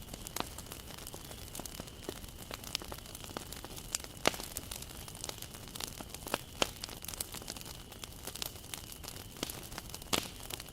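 Wood fire crackling, with irregular sharp pops of burning wood over a soft low rush of flame and a faint steady high tone; the loudest pops come about four, six and a half, and ten seconds in.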